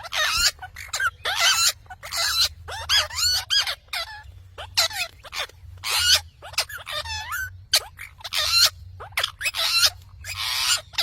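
Pet parrot squawking and chattering in a quick run of short, shrill calls that bend up and down in pitch, some of them harsh and rasping, over a faint low hum.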